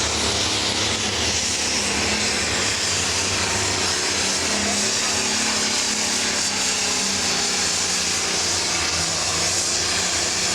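Turbocharged diesel engine of a 10,000 lb pro stock pulling tractor under full power during a pull, a steady loud run with a strong high turbo whine over the engine note.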